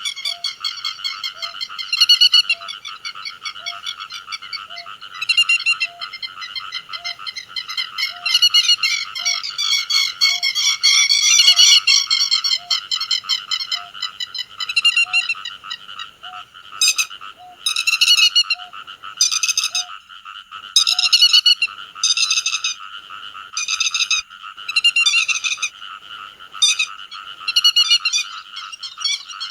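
Grey-headed lapwing calls: sharp, loud notes repeated again and again, coming quickest in the second half. They sit over a steady high background chorus, with a soft low note ticking about every 0.7 s through the first two-thirds.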